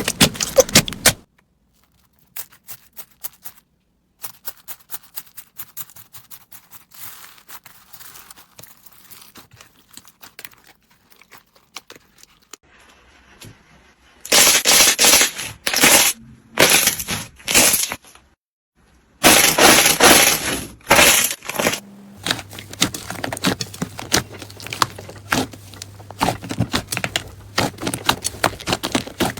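Slime being handled and squeezed: a run of sharp clicks and crackling pops, sparse and faint at first, then several loud, dense bursts of crackling about halfway through, then steady fine clicking.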